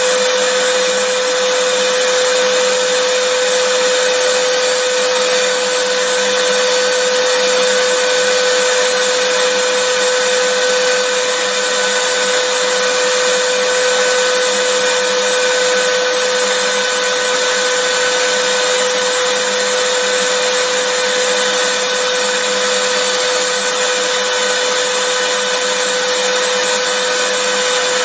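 Vacuum cleaner running steadily: a constant motor whine with a strong steady hum under the rushing air, unchanging throughout.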